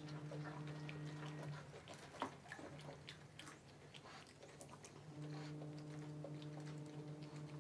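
Two people chewing and biting into samosas, with soft crunches and small scattered clicks of eating. A steady low hum runs underneath, drops out after about a second and a half, and comes back about five seconds in.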